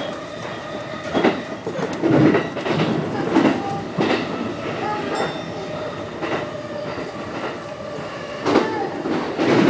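Electric commuter train running on the rails, heard from inside the passenger car: a steady running rumble with a steady tone under it, and several irregular knocks as the wheels pass over rail joints.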